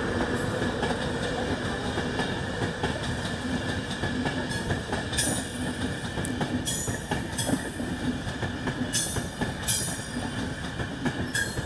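Passenger train moving slowly along the station tracks: a steady rumble with a string of short, sharp wheel squeals and clicks, most of them in the second half.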